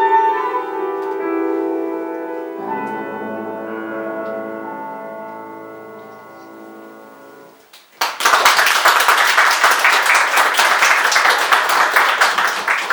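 A female singer holds a final note over piano accompaniment. The piano then finishes alone and dies away. About eight seconds in, the audience breaks into applause.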